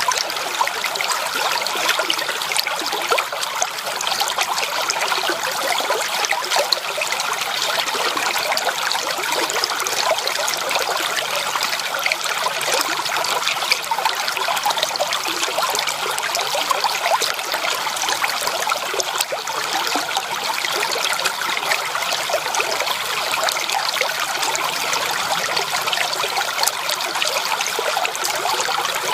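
Creek water trickling and burbling steadily over stones, a constant close splashing with fine flickering detail.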